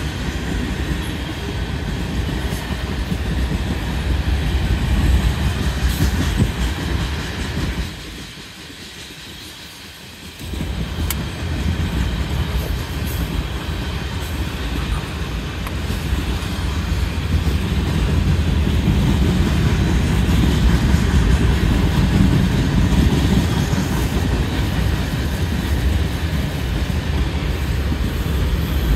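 Freight cars of a CSX mixed manifest train, mostly tank cars, rolling past: a steady rumble and rattle of steel wheels on the rails. It drops away for about two seconds roughly eight seconds in, then carries on.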